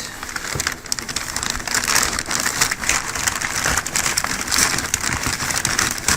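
Packaging rustling and crinkling in a dense, uneven crackle as a boxed motor is pulled out of its carton.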